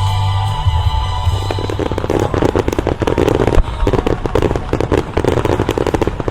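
Show music that stops about a second and a half in, giving way to a dense, rapid volley of aerial firework reports crackling many times a second.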